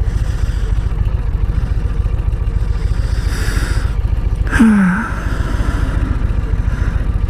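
Harley-Davidson V-twin motorcycle engine running steadily under way, with a dense low pulsing throughout. About four and a half seconds in, a short falling voice sound like a sigh rises briefly above it.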